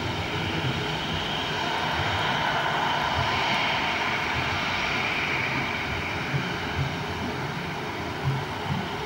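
Boeing 737-800 with CFM56 turbofan engines passing during its landing: a steady jet whine and rush that swells about halfway through and then slowly eases off.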